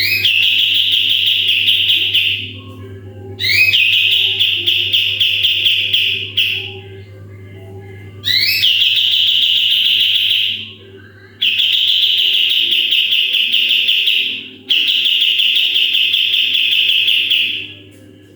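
Kapas tembak songbird giving its rapid 'tembakan' shot calls: five loud bursts, each opening with a quick rising note and running into a fast rattling trill for two to three seconds, with short pauses between. A steady low hum lies underneath.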